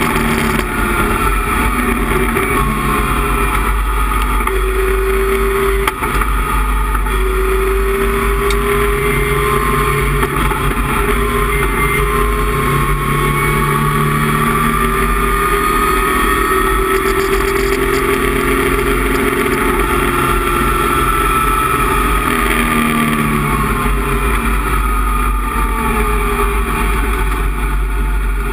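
Datsun 260Z's straight-six race engine running hard at speed, heard from inside the cockpit. Its pitch climbs slowly through a long pull and drops away a few times as the revs come down.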